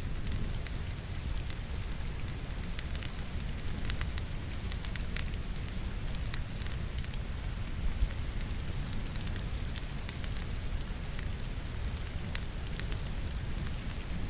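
Wood fire crackling in a fireplace, many small sharp pops and one louder pop about eight seconds in, over a steady low rumble mixed with the even hiss of rain.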